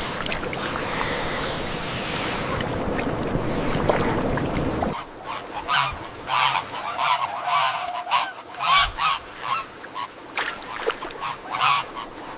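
Steady rushing noise like surf and wind, which cuts off about five seconds in and gives way to a bird flock calling: many short calls in quick succession, one or two a second.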